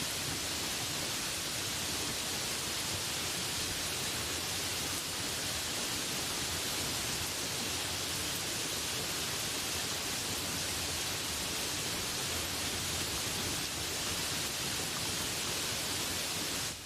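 Steady rain falling: an even, unbroken hiss, strongest in the higher range.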